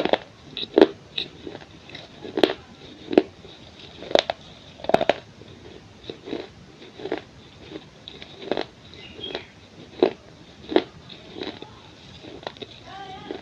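Pieces of a baked clay pot bowl being bitten and crunched between the teeth: a run of sharp, uneven crunches, roughly one or two a second, some much louder than others.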